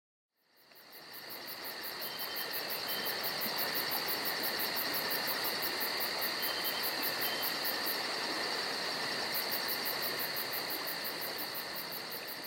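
Crickets and other insects calling together in a steady high chorus with a fast pulsing trill. It fades in at the start and fades out near the end.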